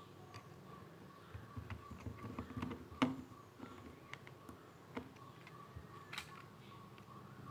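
Irregular light clicks and taps of small hard objects being handled, with sharper clicks about three seconds in and about six seconds in, over a faint steady whine.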